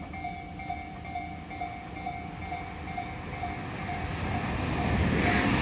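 Tobu 30000 series electric train approaching, its rumble growing steadily louder in the second half. A repeating pulsed ringing tone sounds in the background through the first part and is drowned out as the train nears.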